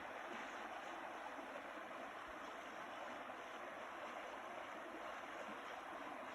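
Flowing water rushing steadily, with no separate splashes or knocks.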